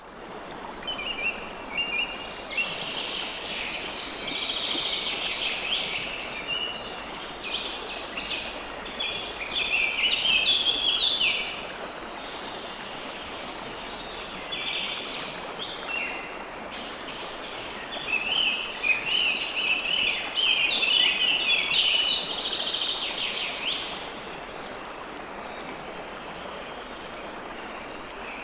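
Songbirds singing in two long bouts of rapid chirps and trills, over a steady rush of water.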